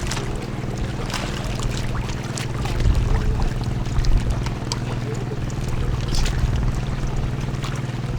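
Boat engine running at a steady low drone, with scattered short clicks and knocks over it.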